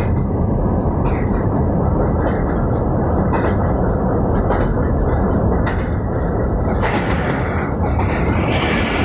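Train running over a steel girder railway bridge, heard from aboard: a loud, steady rumble of wheels on rails with scattered clicks.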